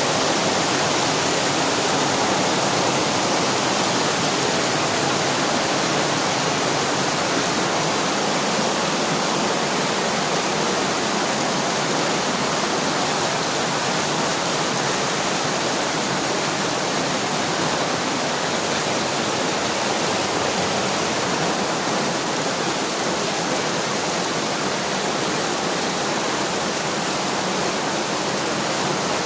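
Heavy rain falling, a steady even hiss with no letting up.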